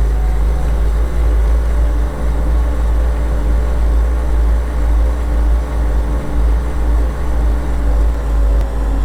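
A large vehicle engine running steadily under way, a loud, deep, even rumble with no change in speed.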